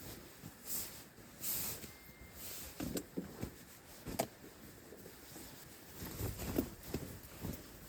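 Irregular rustling with scattered light clicks and knocks; the sharpest click comes about four seconds in.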